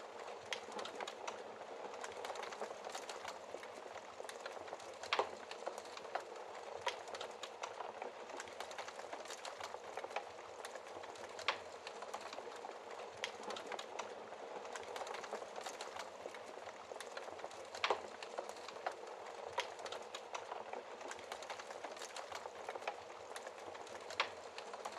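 Wood fire burning in a fireplace: a steady low hiss with frequent small crackles and a few louder pops spread through.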